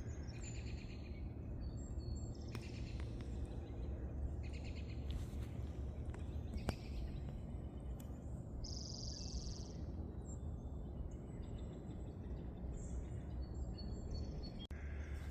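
Several wild birds chirping and calling at intervals over a steady low rumble, with one buzzy trill about nine seconds in.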